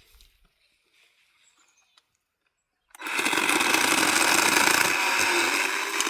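Worx electric chainsaw starting suddenly about halfway through and running hard for about three seconds as it cuts through a redwood limb, then beginning to ease off near the end.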